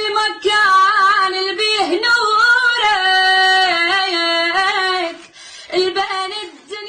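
A solo female voice sings an Arabic latmiya (lament) to Imam Hussein without accompaniment, drawing out long ornamented notes with wavering melisma. The voice breaks off about five seconds in, then comes back briefly with a falling phrase.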